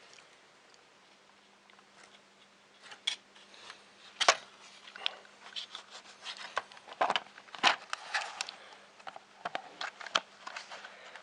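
Hands working the plastic parts of a Sinclair ZX Spectrum+ being reassembled after a keyboard-membrane replacement: scattered sharp clicks and rubbing. It starts about three seconds in, after a quiet start, and the loudest clicks come about four and seven seconds in.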